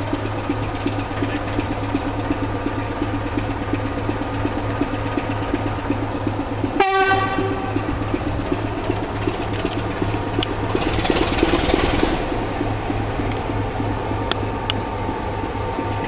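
A locomotive running with a steady low hum, giving one short horn or whistle blast about seven seconds in. A burst of hiss follows a few seconds later, with a few sharp clicks near the end.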